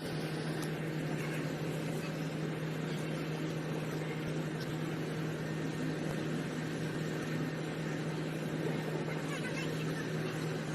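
A steady low engine hum over a constant background noise, with no distinct knocks or changes.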